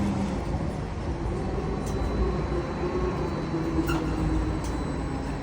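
Heavy vehicle engine running steadily with a low rumble, with a few faint light clicks.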